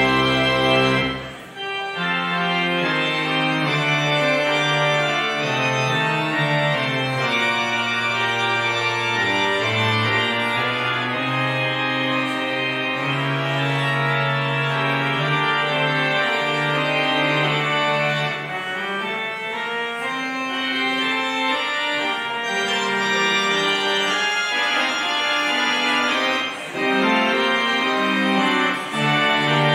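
Organ playing full sustained chords, the postlude after the dismissal, with a short break about a second and a half in before the music goes on.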